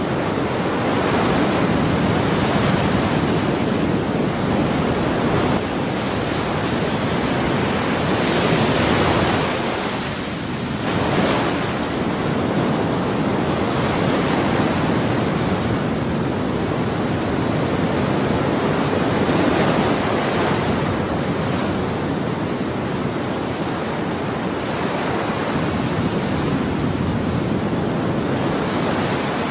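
Ocean waves breaking and washing on a shore in a steady continuous rush, with the hiss swelling and easing every few seconds as each wave comes in.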